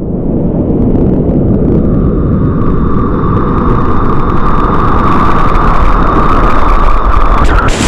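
Whitewater rapids rushing loudly at close range, with a steady high tone running through the roar, and a sudden loud splash near the end.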